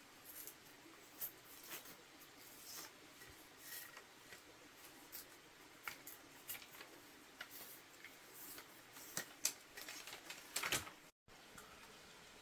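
Quiet, scattered light clicks, taps and rustles of small handling noises, growing a little busier near the end before a brief dropout.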